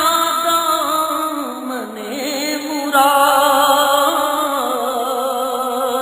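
A single voice singing a slow devotional naat (Urdu religious chant), holding long wavering notes that dip in pitch about two seconds in and climb again a second later.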